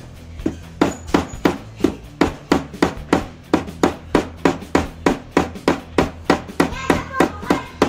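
Small hammer striking a steel wire laid in the groove of a steel swage block, a rapid, even run of about three to four metallic blows a second, some with a brief ring: hand-forging a fishing hook.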